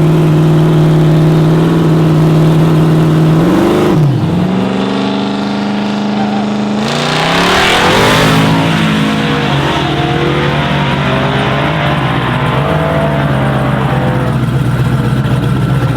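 Engine of a racing truck running hard at high revs. Its pitch dips and climbs about four seconds in and rises in steps, and it swells loudest around eight seconds before the pitch eases down.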